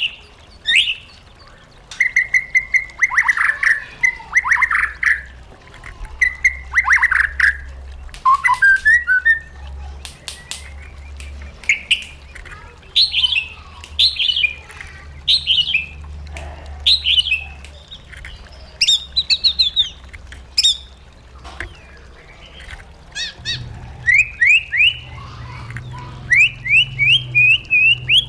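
White-rumped shama singing a varied song: clear whistled phrases, short sweeping notes and sharp clicks, ending in a quick series of rising notes.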